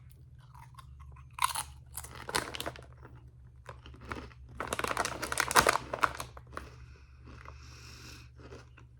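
Someone chewing crunchy ridge-cut potato chips: irregular crisp crunches, loudest a little past the middle.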